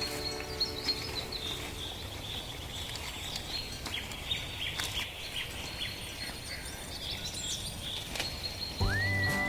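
Open-field ambience: a steady low rumble with birds chirping. Near the end a cow begins a loud, long moo.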